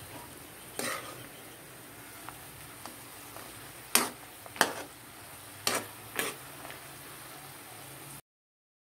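Sweet potato cubes frying in a steel wok of bubbling oil, a steady sizzle, while a metal spatula stirs them and clacks against the wok about five times, loudest around four to six seconds in. The sound cuts off suddenly near the end.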